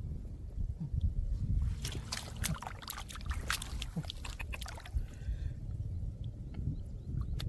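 Splashing and sloshing in shallow muddy water, with a run of sharp splashes in the middle, over a steady low rumble.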